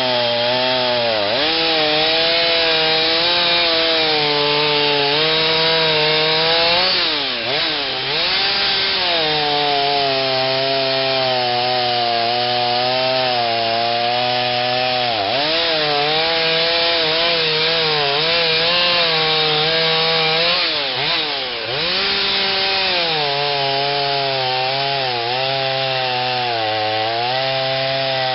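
Stihl 039 chainsaw with a modified, freer-flowing muffler, running at full throttle as it cuts through a large oak with a 28-inch bar. The engine pitch sags and recovers twice, once about a quarter of the way in and again about three-quarters of the way through.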